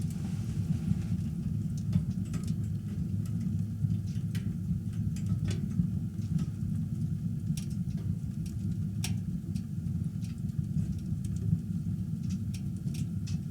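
Wood fire crackling, with irregular sharp pops and snaps of burning firewood over a steady low rumble.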